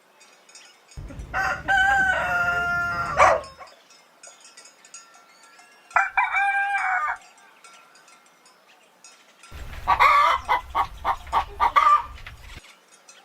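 Rooster crowing: one long crow about a second in and a shorter one around six seconds. Near the end comes a run of quick, choppy calls.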